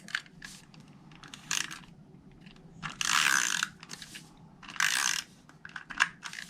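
Snail adhesive tape runner rolled across paper in two rasping, ratchety strokes, among small clicks of handling; its adhesive roll is running out.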